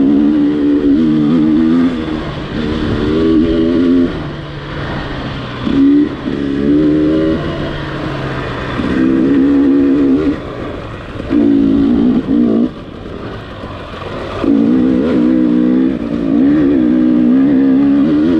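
Gas Gas EX300 TPI single-cylinder two-stroke dirt bike engine working over rough trail. The throttle opens and closes every one to three seconds, so bursts of higher, wavering revs alternate with quieter stretches off the throttle. The longest pull comes near the end.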